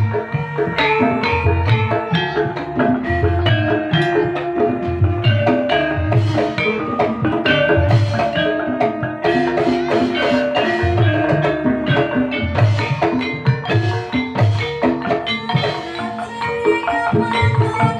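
Live Javanese gamelan music accompanying an ebeg dance: mallet-struck metallophones or bamboo xylophones playing a busy melody over drums, with a deep low stroke about every two seconds.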